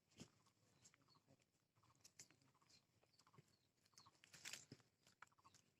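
Near silence with faint, scattered crunching and chewing of biscuits, a little louder about four and a half seconds in.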